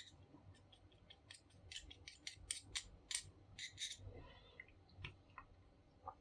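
Faint runs of quick, sharp clicks and snips, irregularly spaced and thickest in the middle, from small hand work on the paper laminator.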